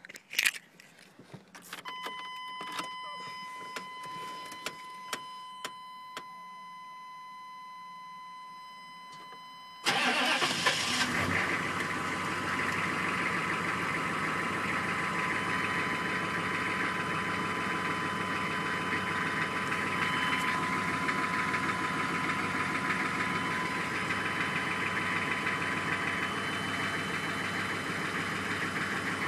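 A steady electronic tone sounds for about eight seconds. Then the 1995 Chevy 2500's 6.5-litre V8 turbo diesel cranks and starts from cold about ten seconds in, and settles into a steady idle.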